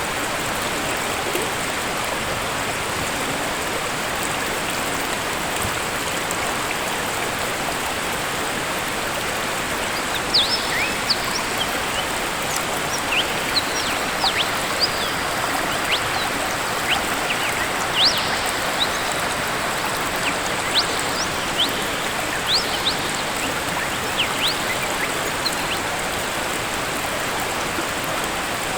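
Waterfall rushing steadily. From about ten seconds in, many short, high chirps sound over it.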